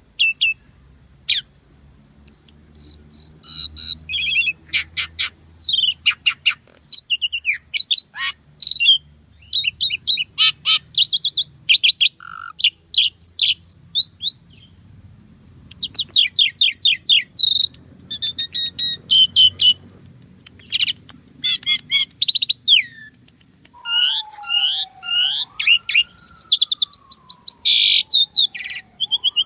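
Asian pied starling (jalak suren) singing a busy, varied song: quick runs of chattering chirps, clicks and whistles in bursts with short pauses between them. Near the end comes one long whistle that slides down, rises and falls again.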